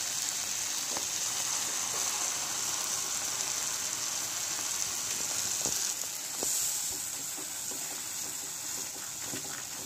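Thick spice masala sizzling in mustard oil in a frying pan as green pea paste is added and stirred in, with a few faint knocks of the spatula against the pan. The sizzle is a steady hiss that eases a little after about six seconds.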